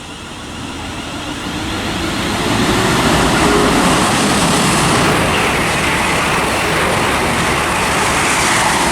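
Class 350 Desiro electric multiple units running through the station. Wheel and rail noise builds over the first three seconds and then stays loud and steady, with a faint rising tone early on.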